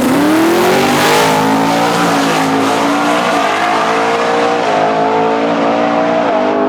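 Twin-turbo Coyote 5.0 V8 in a drag-racing F-150 launching at full throttle: the engine note climbs quickly off the line, then holds high with three small dips as the transmission shifts.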